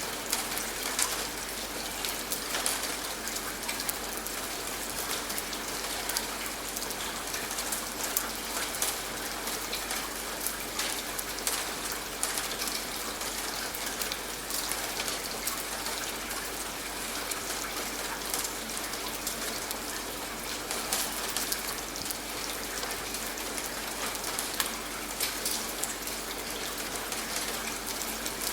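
Steady rain, with many individual drops ticking on a surface over an even hiss.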